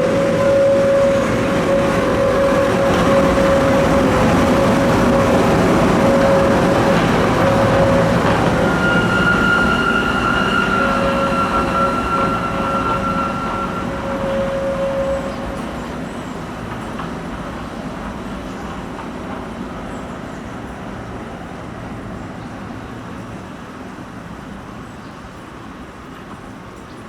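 Historic Trieste–Opicina tram running past with a rumble and steady whining tones through the first half, then fading gradually as it moves away.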